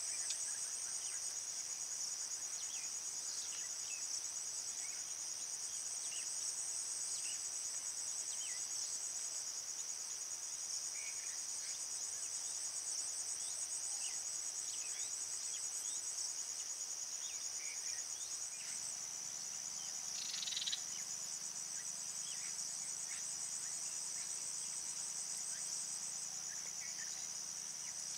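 Insect chorus: a steady high-pitched trilling with a fine rapid pulse, with scattered faint short chirps on top and one slightly louder call about two-thirds of the way in.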